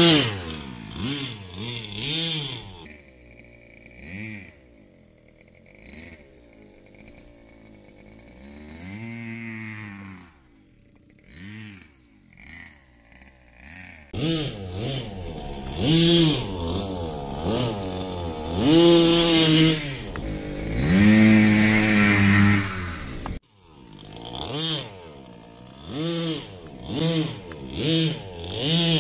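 Nitro RC monster truck's 3.5cc two-stroke glow engine (21-size) revving up and down again and again in short throttle bursts, quieter for a stretch and then loud and close again.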